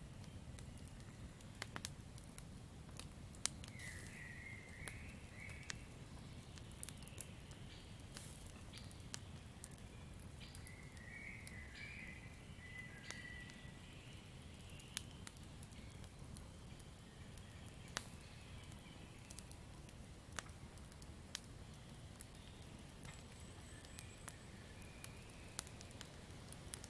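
Campfire crackling: irregular sharp pops and snaps over a soft, steady low rumble of burning. Brief high chirping calls come in twice, about four seconds in and again around eleven to thirteen seconds.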